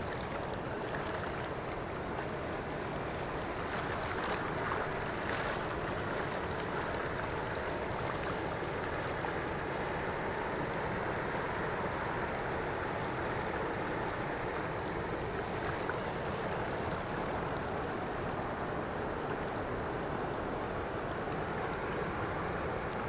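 Steady rushing of flowing water, as from a waterfall or stream.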